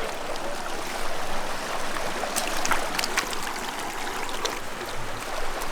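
A stream of running water, steady throughout, with a few short sharp clicks around the middle.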